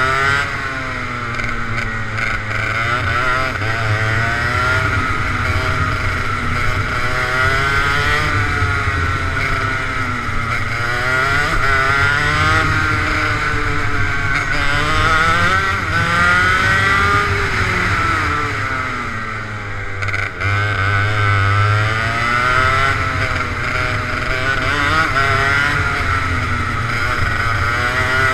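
Go-kart engine running under power, its pitch repeatedly climbing on the straights and dropping for corners as the kart laps the track.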